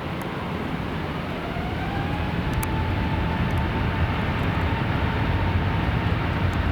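Airbus A350-1000's Rolls-Royce Trent XWB turbofans at takeoff power: a steady jet roar that grows slowly louder, with a fan whine that rises in pitch about two seconds in and then holds steady.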